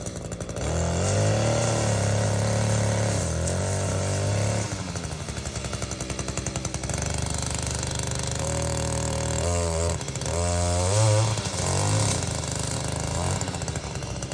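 A motor vehicle engine running, starting under a second in, with its note rising and falling a few times around ten seconds in.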